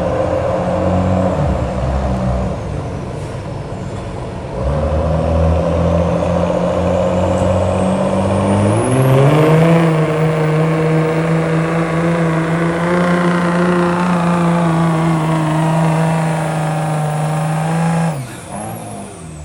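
Turbocharged diesel pulling truck under load: the engine runs steadily, then about eight seconds in it revs up hard with a high turbo whistle climbing above it. It holds at high revs for about nine seconds, then lets off near the end, the engine note dropping sharply and the whistle falling away.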